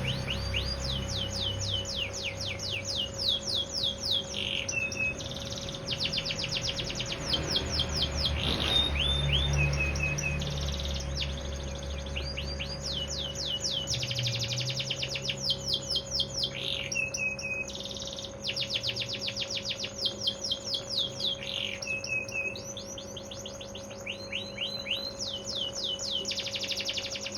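Canary singing one long continuous song: rolling phrases of rapid trills built from fast down-sweeping notes, changing to a new phrase every second or two, with a few short held notes between.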